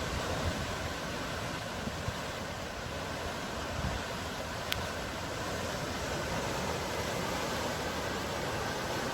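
Sea surf washing steadily, an even rushing noise with no single wave breaks standing out.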